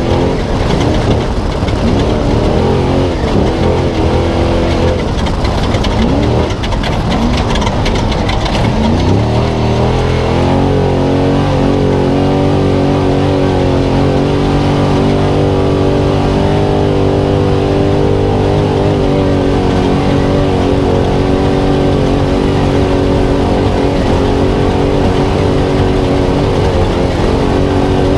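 Spec Trophy Truck's V8 engine heard from on board at race pace. The revs rise and fall with the throttle for the first several seconds, then hold at a steady high pitch for most of the rest, with a brief dip near the end.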